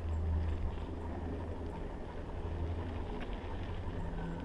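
Steady low rumble of riding along a dirt trail behind a running dog, with wind buffeting the microphone; the rumble eases after about three seconds.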